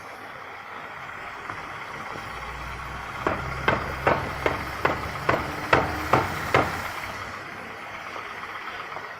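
Car brake calipers knocking: a run of about nine sharp knocks, roughly two or three a second, over the low rumble of the car rolling.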